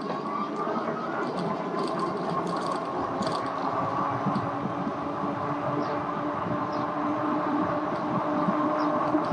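Electric bike riding along the road: a steady motor whine of several even tones, over a continuous rush of wind and tyre noise.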